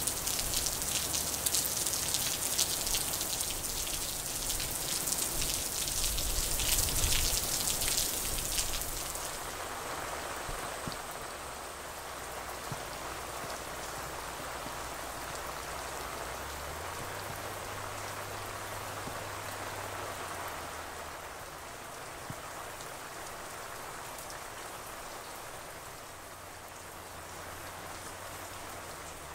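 Heavy rain pouring down in a steady downpour. About nine seconds in it gives way to a quieter, softer, even hiss.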